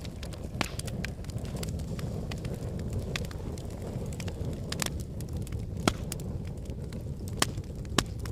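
Wood fire of burning logs in a fireplace: a steady low rumble of flame with scattered crackles and sharp pops, the loudest pops about six seconds in and twice near the end.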